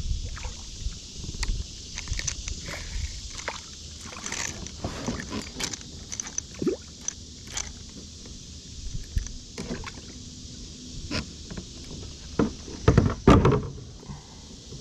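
Scattered knocks, clatter and light water sloshing from someone moving about in a kayak while handling a just-caught fish and tackle. The loudest burst of knocks comes near the end.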